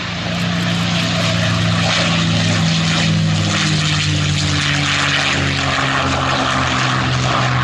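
Steady jet aircraft noise during a Boeing 777-300ER pushback: a loud, even rushing hiss over a steady low hum.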